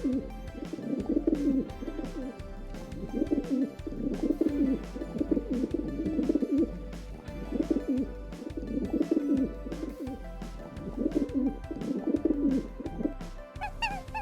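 A bird calling in repeated low phrases, about every one to two seconds, over background music with a steady beat.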